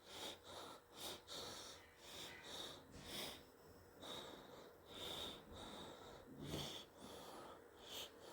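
Faint breathing close to a microphone: soft, irregular breaths and sniffs.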